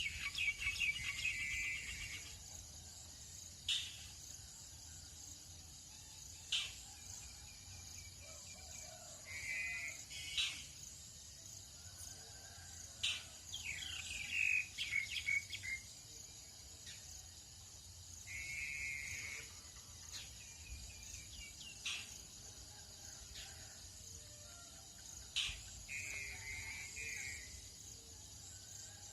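Tropical birds calling: several short trilled phrases of about a second each and sharp single chip calls every few seconds. Under them runs a steady high-pitched drone of insects.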